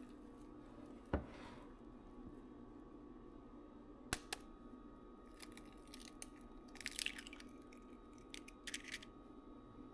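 Small handling noises over a steady low hum: a soft knock about a second in, two sharp clicks around four seconds, then several short scratchy, rustling bursts.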